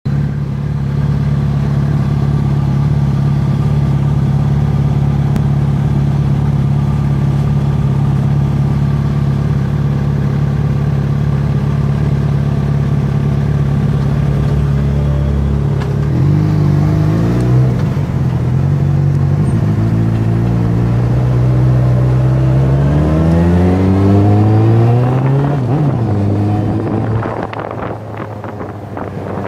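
Sport motorcycle engines idling steadily and loudly, then revved repeatedly from about halfway through, the pitch climbing and dropping with each blip of the throttle; the sound eases off slightly near the end.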